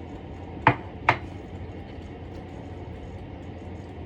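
Two sharp knocks of kitchenware, about half a second apart, over a steady low hum.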